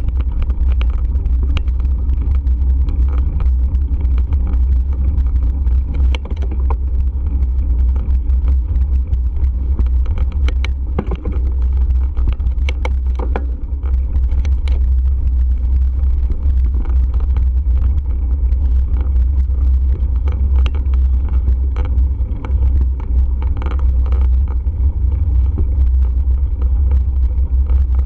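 Wind buffeting the microphone during a bike ride: a heavy, steady low rumble, with scattered small clicks and rattles throughout.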